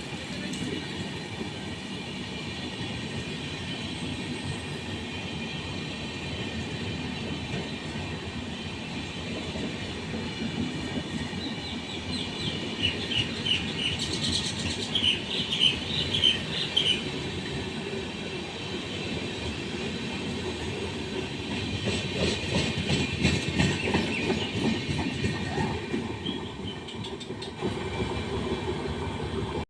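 Suburban electric local train running along the platform, a steady rumble with wheels clicking over rail joints. High wheel squeals come about halfway through.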